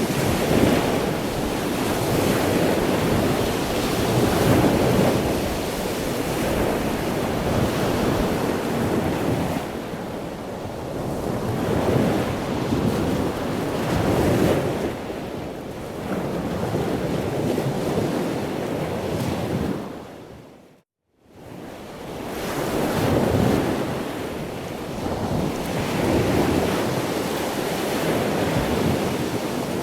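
Ocean waves breaking and washing in, swelling and easing every few seconds. About two-thirds of the way through, the sound fades quickly to silence for about a second and then rises again.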